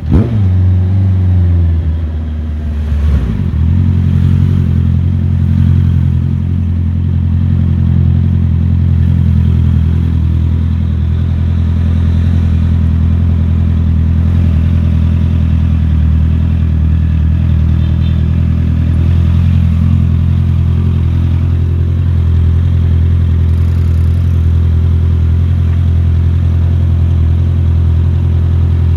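Motorcycle engine running under way, heard from the bike itself. Its pitch dips and recovers twice in the first few seconds, then it holds a steady cruising note.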